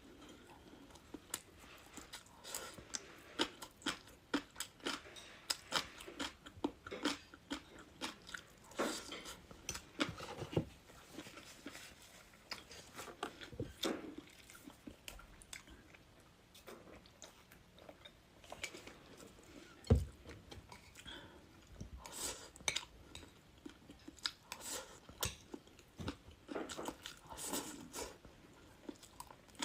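Close-up eating sounds: irregular crunching and chewing of crisp food, with small bites and mouth noises throughout. A single louder thump about 20 seconds in.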